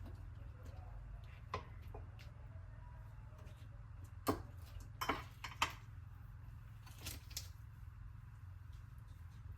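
Light clicks and taps of kitchen utensils on dishes, with a few sharper knocks clustered around the middle, over a low steady hum.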